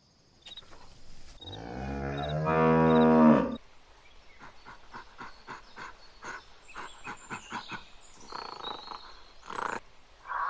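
A cow mooing: one low, drawn-out moo that swells in loudness over about two seconds, starting a second and a half in. Then comes a long run of short, quiet clicks, about three a second.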